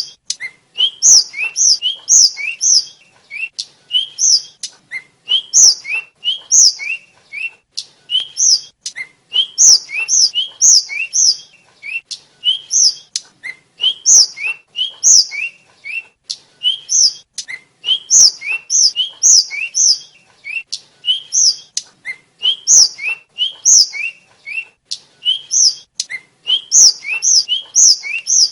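A tledekan (sikatan), a small Indonesian flycatcher, singing continuously: quick phrases of short whistled notes, a lower upswept note followed by high, sharp notes, repeated over and over.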